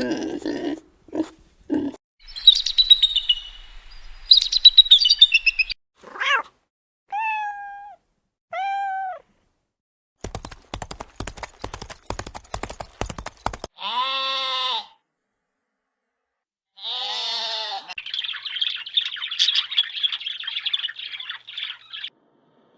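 A run of different animal calls one after another: short low calls, high chirping, several arched pitched calls, a burst of rapid clicks about halfway through, and a long high chattering call near the end.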